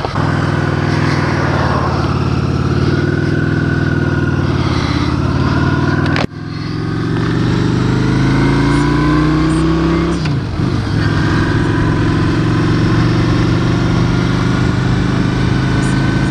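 Honda Shadow 750 V-twin motorcycle engine pulling away and accelerating. The sound breaks off abruptly about six seconds in. The engine pitch then climbs, drops briefly at a gear change around ten seconds in, and holds steady at cruising speed.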